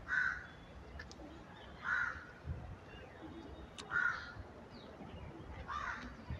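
A bird calling four times, evenly spaced about two seconds apart.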